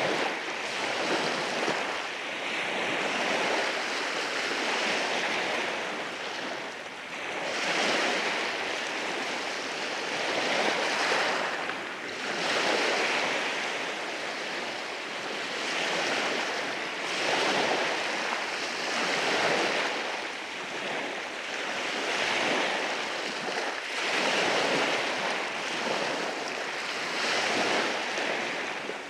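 Waves washing in over rocks on a beach, a continuous rushing surf that swells and eases every few seconds as each wave breaks and draws back.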